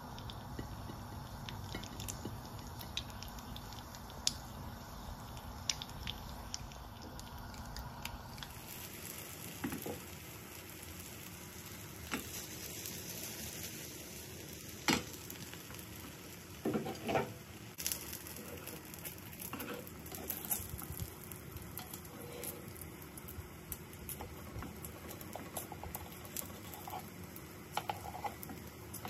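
Food frying in a hot pan: a steady sizzle with scattered small pops. A few sharper knocks of a utensil against the pan come in the second half.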